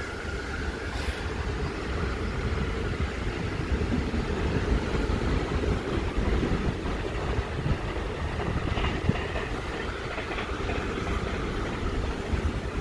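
Deutsche Bahn ICE electric train at the platform, giving a steady low rumble and hum.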